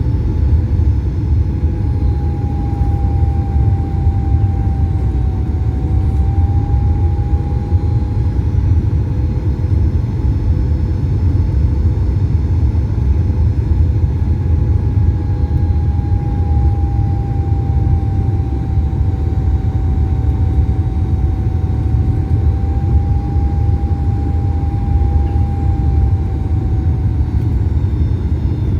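Boeing 737 MAX-8 cabin noise in flight: a steady deep rumble of engines and airflow, with a faint higher hum that drifts slightly in pitch.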